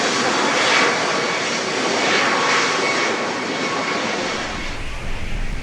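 Airplane's engines passing, a loud rushing noise with a steady whine in it, fading about four seconds in as wind buffeting the microphone takes over.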